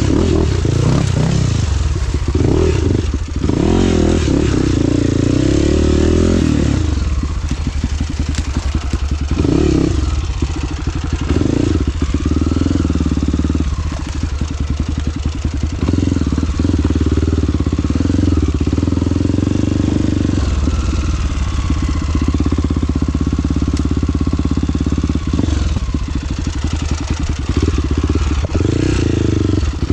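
Trail motorcycle engine running under way, its pitch rising and falling as the throttle opens and closes, with some clatter.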